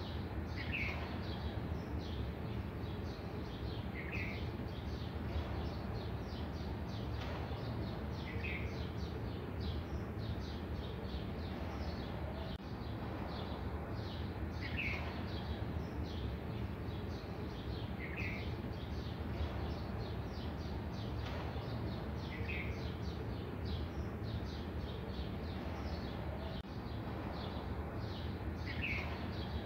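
A bird's short falling chirp, repeated about every three to five seconds over a steady background hiss.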